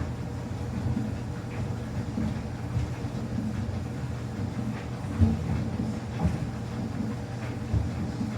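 Samsung washing machine running a quick wash with a small load of towels: a steady low hum from the motor and drum, with irregular thumps as the towels shift, the loudest about five seconds in.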